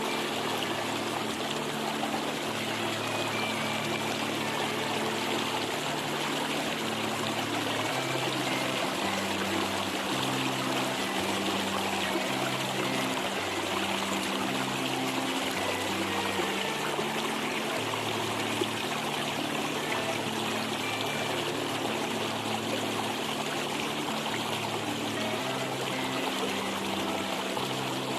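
A stream trickling and flowing steadily, layered with soft relaxation music of slow, low held notes that change every second or two.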